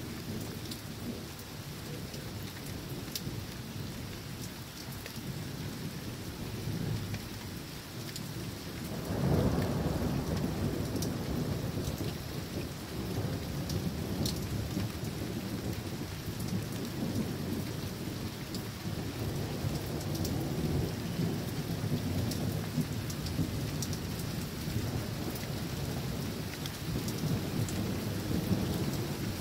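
Steady rain falling with rumbling thunder. About nine seconds in, a sharper, louder thunderclap breaks into a long low rumble that keeps rolling and swells again later.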